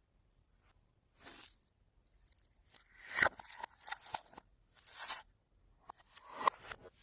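Slime being worked by hand: a series of short sticky, crackling tearing sounds as it is stretched and squished, several of them with short gaps between.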